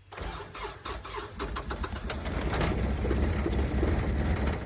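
Cold start of a 2005 Miller 350 welder's diesel engine at −20: the starter cranks, the engine gets louder about two seconds in as it begins to fire, then it stops sharply near the end. It needs more time on the glow plugs.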